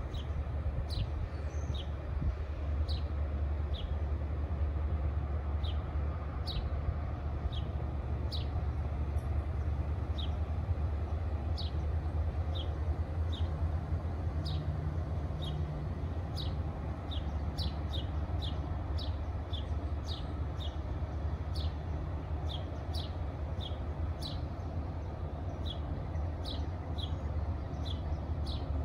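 A bird giving short falling chirps over and over, about one or two a second, over a steady low rumble.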